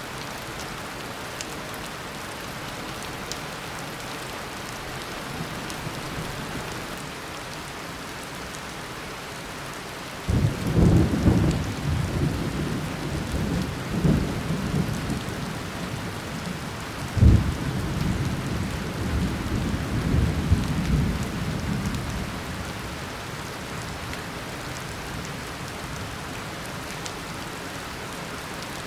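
Steady heavy tropical rain falling, with a clap of thunder about a third of the way in. It rumbles low, then a second sharp crack follows, and the thunder fades back into the rain several seconds later.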